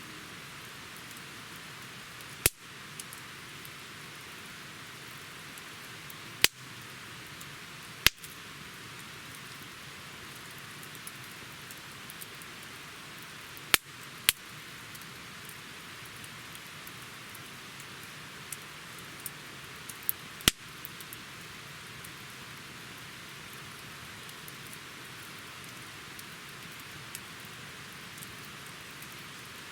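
Wood campfire burning: a steady soft hiss with half a dozen sharp, loud crackling pops spread through it and fainter ticks between them.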